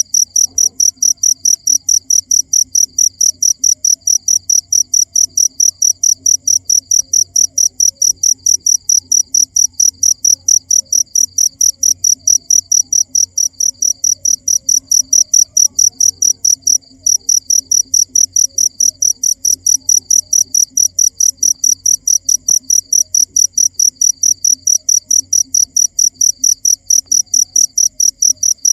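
Cricket chirping: a fast, even train of high, shrill chirps, loud and steady, with one brief break about two-thirds of the way through.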